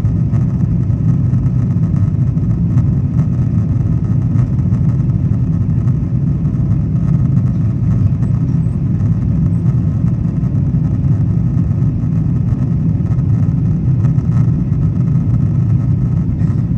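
Boeing 777-200ER jet engines and rushing air heard inside the economy cabin as a steady low rumble during the climb after takeoff.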